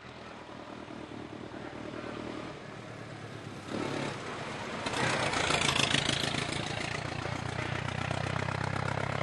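Classic racing car engine running and growing louder, with a sudden step up about four seconds in and the loudest stretch around five to six seconds.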